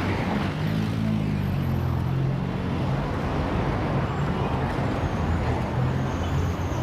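Heavy city street traffic: a steady wash of vehicle noise under the low, slightly wavering hum of a nearby engine.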